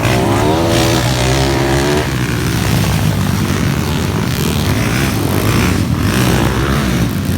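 Underbone motorcycle engines racing, revving hard, their pitch rising and falling in the first couple of seconds over a steady loud engine din.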